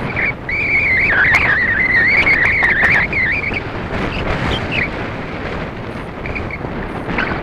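Electric RC plane's brushless motor and propeller whining as it flies, the pitch wavering up and down with throttle for about three and a half seconds before fading away, over wind rumble on the microphone.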